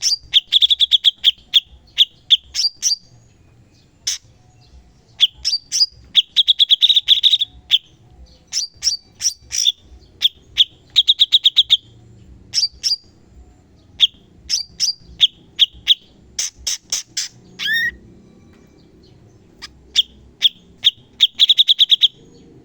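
Cucak cungkok songbird singing in sharp, rapid bursts: fast runs of clicking, chattering notes in phrases of a second or two, separated by short pauses.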